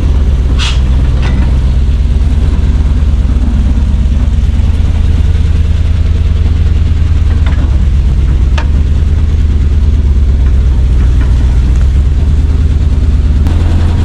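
Carbureted gasoline engine of a Chevrolet C60 wrecker idling steadily, with a few brief clicks about a second in and again around halfway.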